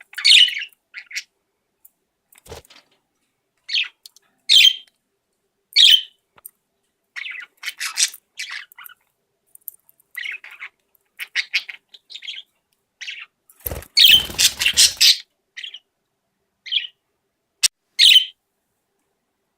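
Pet budgerigars chirping in short, scattered calls, with one louder, rougher burst about two-thirds of the way through.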